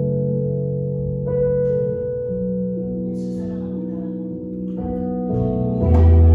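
Worship keyboard accompaniment playing slow, sustained chords in an instrumental passage between sung lines. Near the end a deep bass note comes in and the music grows louder.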